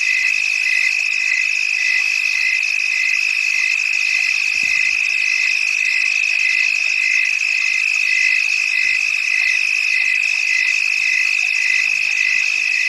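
Chorus of calling frogs: a steady high trill with a shorter call pulsing about twice a second over it.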